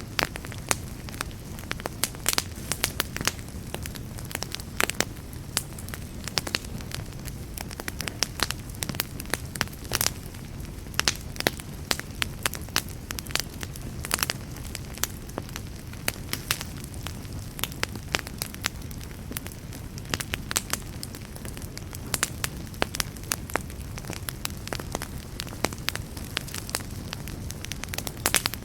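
Wood campfire burning with a steady low rush and frequent irregular crackles and sharp snaps.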